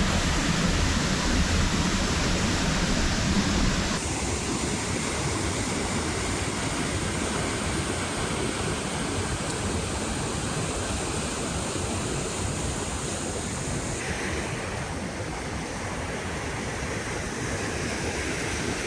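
Steady rushing of a waterfall, an even noise with no separate events; its tone changes abruptly twice, about four and fourteen seconds in.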